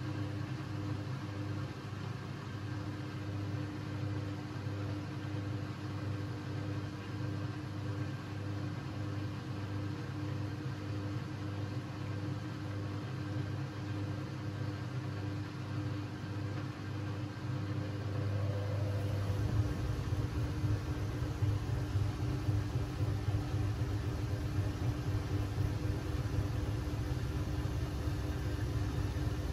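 Siemens Siwamat 6143 washing machine running with a steady motor hum. About nineteen seconds in, the hum rises in pitch, grows louder and takes on a deeper rumble as the drum picks up speed.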